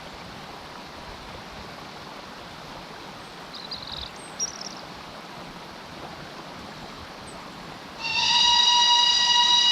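Steady outdoor background rush with a few faint bird chirps, then about eight seconds in a narrow-gauge steam locomotive's whistle starts, loud and held on one steady chord.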